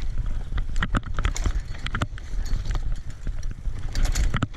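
Bicycle rattling over a bumpy dirt trail: irregular sharp clicks and knocks from the frame and handlebars over a steady low rumble.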